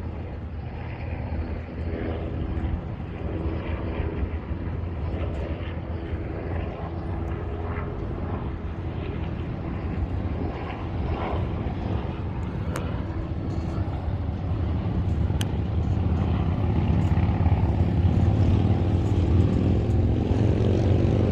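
Low, steady engine drone with a faint pitched hum, growing louder over the last few seconds.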